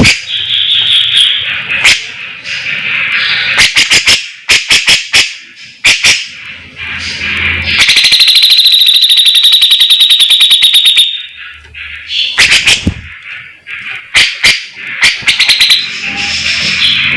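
Songbird song played as a tutoring recording: quick chattering phrases and sharp clicking notes, with a long, very fast buzzing trill about eight seconds in that stops abruptly after some three seconds.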